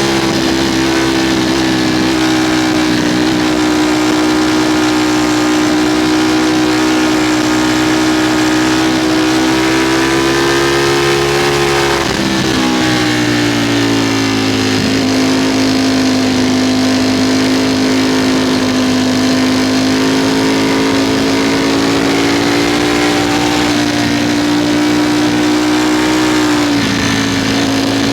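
Ducati Streetfighter V4's V4 engine running at road speed under way, with wind noise on the microphone. The engine pitch drops sharply about halfway through, then slowly climbs back, with another brief dip near the end.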